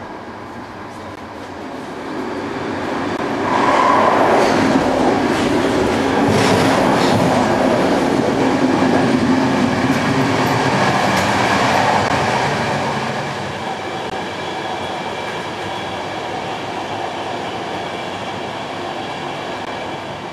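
Train running on the rails: a steady rumble that swells over a couple of seconds, stays at its loudest for about nine seconds, then eases back to a steadier, quieter run.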